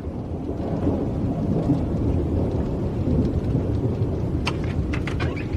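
Rolling thunder rumbling low and steadily, with rain falling and a few light clicks near the end.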